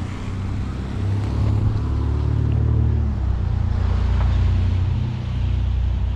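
An engine running steadily with a low hum, growing louder about a second in.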